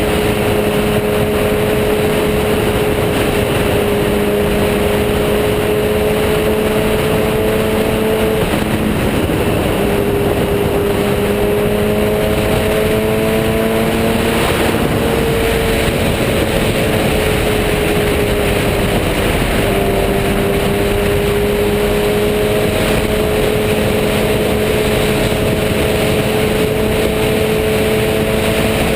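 Sport motorcycle engine running at a steady road speed under heavy, constant wind rush. The engine note shifts pitch a few times, about a third of the way in, halfway and two-thirds through, as the rider changes speed or gear.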